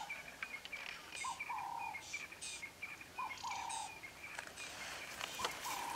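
Several birds calling: a repeated two-part call, a short note then a longer held one, about every two seconds, over a string of quick higher chirps.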